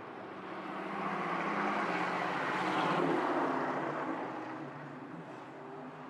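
Vintage straight-eight race car engine driving past, its exhaust note growing louder to a peak about halfway through and then fading.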